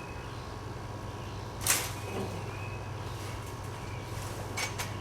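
A sharp clatter about a second and a half in, then two light knocks near the end, over a steady low hum.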